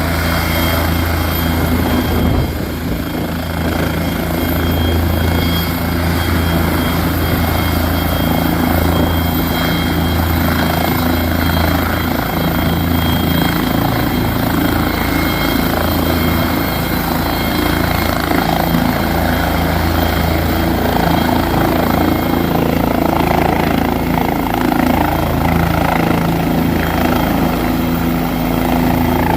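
Medical helicopter's turbine engine and rotor running steadily, a low rotor drone under a thin, high turbine whine.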